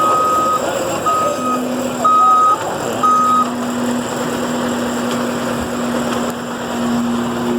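Backup alarm of a reversing vehicle beeping four times, about once a second, over steady machinery noise. A low steady hum carries on after the beeps.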